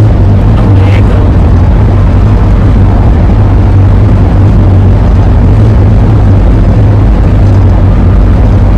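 Ford E-350 van driving: loud, steady road and wind noise with a constant low drone.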